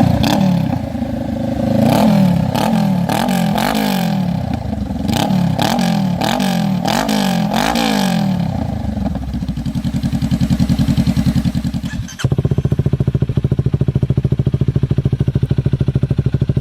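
Honda Rebel motorcycle with an aftermarket slip-on muffler, idling and then blipped about seven times in quick succession before settling back to idle. About three-quarters of the way through, the sound breaks off abruptly and comes back as a steady idle with a deeper, evenly pulsing exhaust note.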